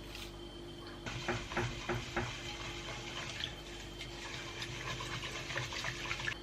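Running water filling a container, a steady hiss, with a few knocks of kitchenware about a second in.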